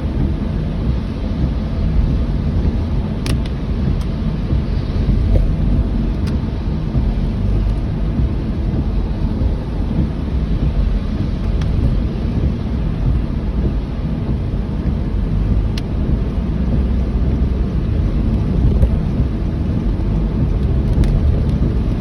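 Heavy rain with a steady deep rumble underneath and a few scattered faint ticks.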